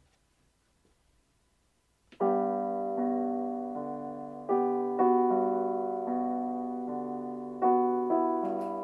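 Quiet for about two seconds, then slow background piano music begins: gentle sustained chords, each struck and left to ring.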